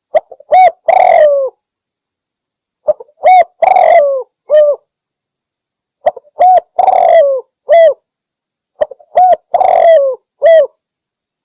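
Spotted dove (Javanese derkuku) cooing in its repeated territorial song. Four phrases come about three seconds apart, each a couple of short coos, then a longer coo that falls in pitch, then a short final note.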